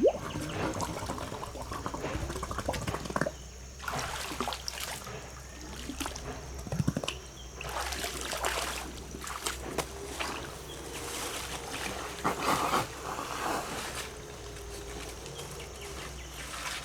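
Water splashing and trickling in irregular bursts, with scattered sharp knocks.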